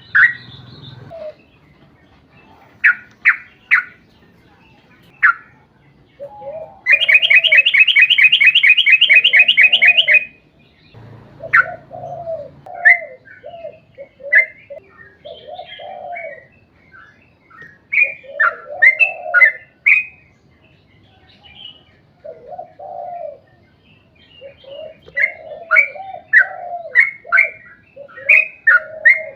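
Yellow-vented bulbul (trucuk) singing: short bubbly low notes mixed with quick higher chirps, and a long rapid trill from about seven to ten seconds in.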